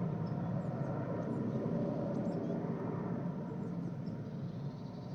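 Helicopter flying over, its rotor and engine noise slowly fading as it moves away. Faint bird chirps sound high above it.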